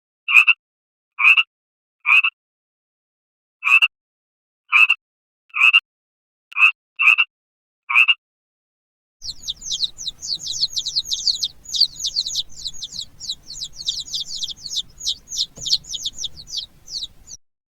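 An animal giving about ten short, separate calls, then a bird singing a fast run of high, falling chirps, several a second.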